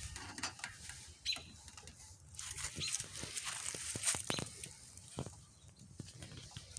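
Faint scattered clicks and rustling from small metal parts and tools being handled, with a few short high chirps, most likely birds, over the top.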